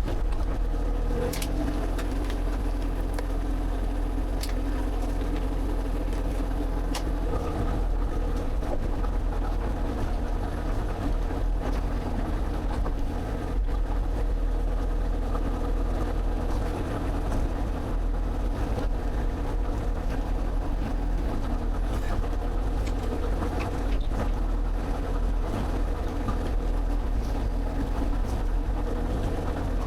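Excavator engine running steadily, with a few sharp knocks in the first several seconds.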